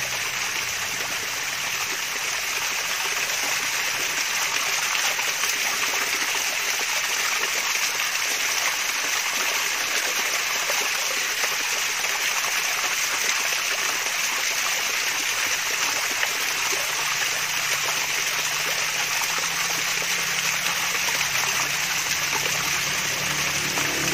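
Water from a small waterfall splashing and trickling steadily, a constant bright babble of flowing water.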